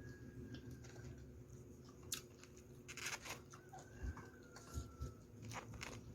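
Faint mukbang eating sounds: chewing, with scattered small clicks and crunches of food, a short cluster of crunches about three seconds in.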